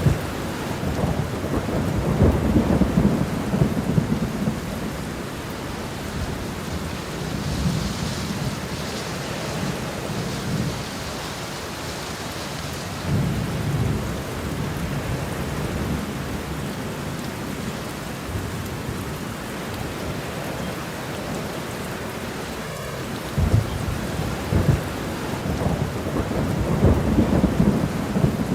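Steady rain falling, with low rolls of thunder that swell and fade several times.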